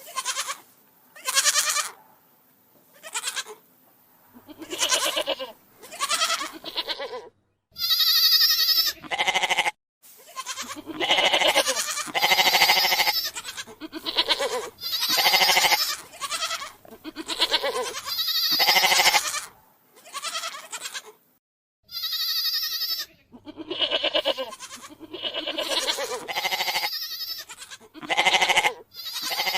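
Goats bleating over and over, a string of separate calls each lasting up to about a second. The calls come with short gaps at first, crowd together and overlap in the middle, and a few are higher-pitched than the rest.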